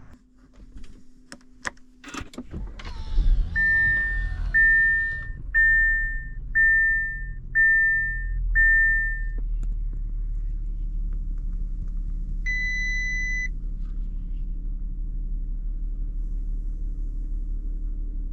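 Cold start of a 2017 Audi A7 Competition's supercharged V6. After a few clicks, the starter turns briefly and the engine catches about three seconds in with a flare of revs, then settles to a steady idle. Six short warning chimes about once a second sound over the start, and a single chime comes near the middle.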